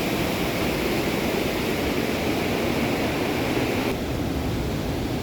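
Steady rushing of fast-flowing water, a mountain river or waterfall, easing slightly about four seconds in.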